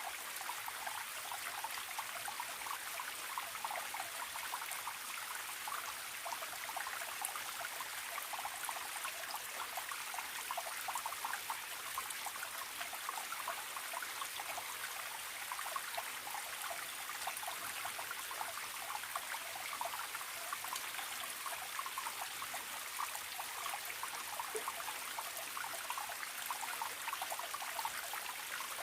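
Small forest stream trickling and babbling steadily.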